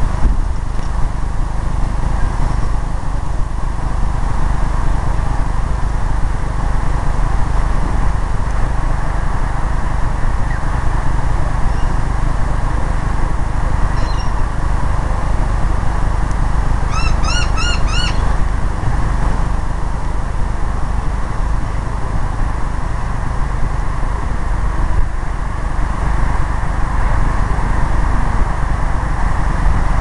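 A steady, loud low rumble and hiss throughout. A little past halfway, a bird gives a quick run of about six short, arched, ringing notes.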